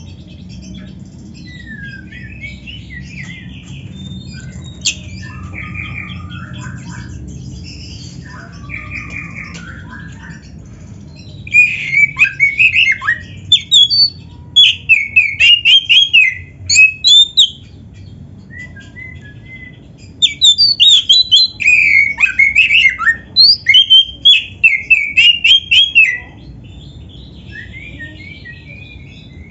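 Oriental magpie-robin (kacer) singing a varied song of quick whistled and harsh phrases: soft at first, then two loud runs of rapid notes, one just before the middle and one in the latter part, before it softens again. A steady low rumble runs underneath.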